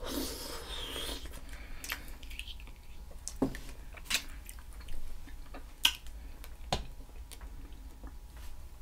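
Close-up eating sounds of a seafood boil: wet chewing and mouth smacking, with a short noisy slurp in the first second and a handful of sharp wet clicks scattered through, the loudest about six seconds in.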